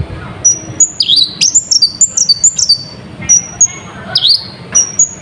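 Kolibri ninja sunbird singing a fast series of high, sharp notes. The song mixes short flat whistles with quick notes that dip and rise, several a second, with a busy burst about one to three seconds in.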